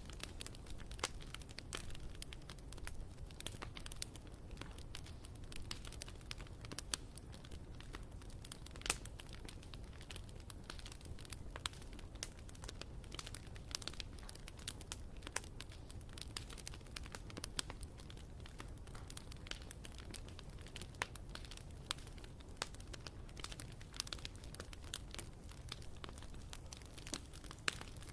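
Wood campfire crackling: irregular sharp pops and snaps, many each second, over a steady low rumble.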